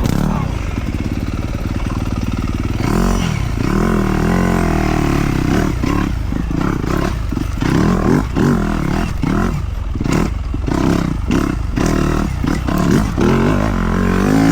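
Dirt bike engine revving up and down repeatedly as it rides a trail, with frequent clattering knocks over the engine sound.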